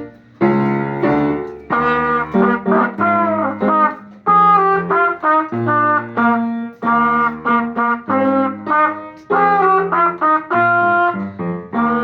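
Trumpet playing a melody of short detached notes and longer held notes.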